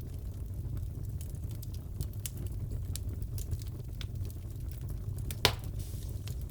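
Crackling fireplace: a steady low rumble of burning wood with scattered small crackles and one louder pop about five and a half seconds in.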